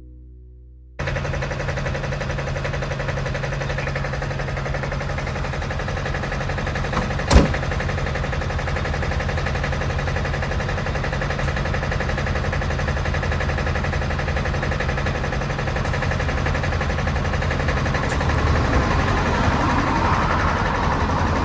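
A large vehicle engine runs steadily. It starts abruptly about a second in, and there is one sharp knock about seven seconds in.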